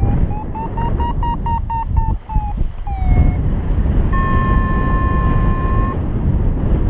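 Strong wind buffeting the microphone in flight, with a paragliding variometer's electronic tones over it. First comes a quick series of beeps that rise slightly in pitch, then a short falling glide, then a steady held tone for about two seconds.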